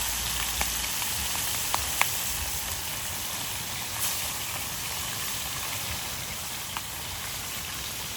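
Fish frying in hot oil over an open fire: a steady sizzle with a few sharp pops and crackles.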